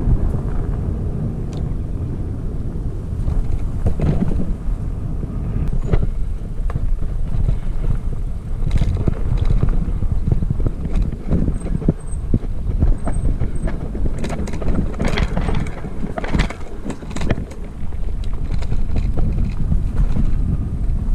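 Wind rumble on the microphone with scattered knocks and rattles from a Heybike Explore fat-tire e-bike riding over a bumpy off-road trail. The knocks come more often in the second half.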